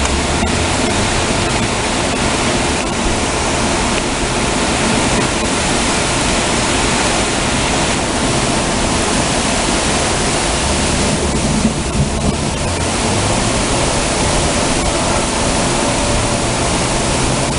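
Heavy rain pouring down in a steady, even downpour during a thunderstorm.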